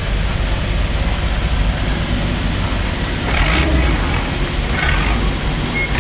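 Steady low rumble and hiss of a motor vehicle on the move, with no distinct knocks or horn.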